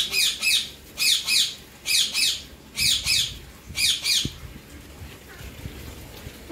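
A bird calling outdoors: loud, harsh two-note calls, each note falling in pitch, given about once a second five times, then stopping about four seconds in.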